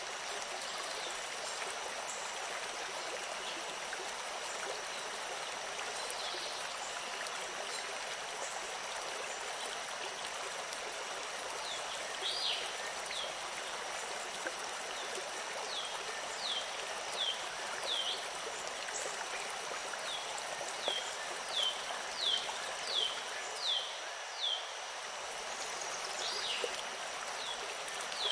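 Steady rushing of a flowing stream. From about halfway through, a bird repeats short, quickly falling chirps, coming faster near the end.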